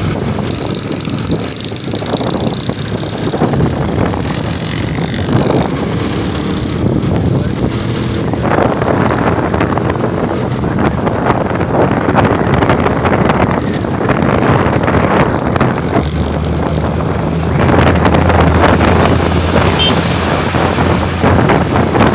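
Wind buffeting the microphone over a motorcycle's engine running while riding on the road; the engine hum becomes steadier and more prominent in the last few seconds.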